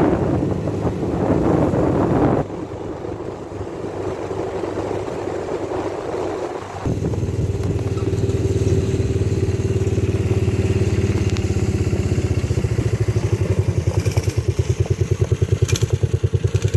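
Vehicle engine running with a steady low pulse. The sound changes abruptly about two and a half seconds in and again about seven seconds in.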